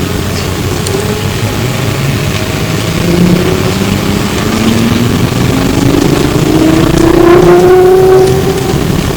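E902 Flyer trolleybus accelerating, heard from inside: the electric traction motor's whine rises steadily in pitch over several seconds, loudest near the end, over the cabin's running rumble.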